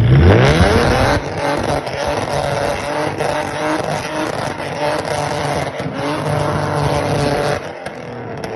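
Tuned 3.7 L V6 Ford Mustang engine revved hard: the pitch climbs steeply in the first second, holds high for about six seconds, then drops off near the end.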